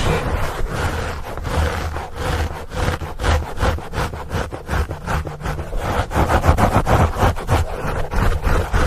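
Scratching on a foam microphone cover: quick, uneven strokes one after another, with a deep rumble from the handling of the microphone.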